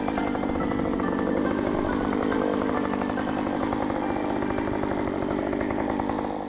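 STIHL MS 194 T C top-handle chainsaw's two-stroke engine running steadily, then stopping abruptly near the end.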